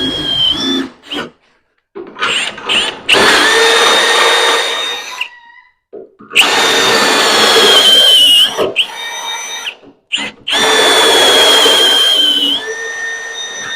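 Electric drill boring a hole through the car's frame, run in about four bursts of two to three seconds with short pauses between. The motor's whine sags in pitch as it bites into the metal.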